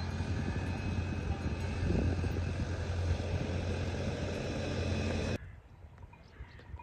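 A steady engine-like rumble with hiss that cuts off abruptly about five seconds in, leaving only a faint background.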